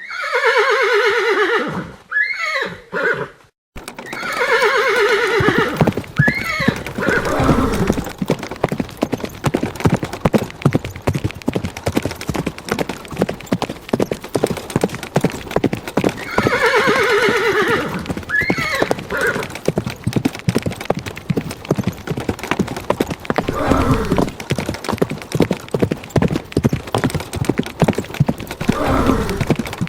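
Horses neighing several times over the clip-clop of hooves. A neigh opens, then there is a brief silence about three and a half seconds in. After that, hoofbeats run on steadily, with more neighs every few seconds.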